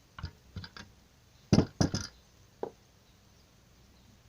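Knocks and clinks of metal motorcycle engine parts being handled and set down on a bench during disassembly: a few light taps, then two loud knocks close together about a second and a half in, and one more shortly after.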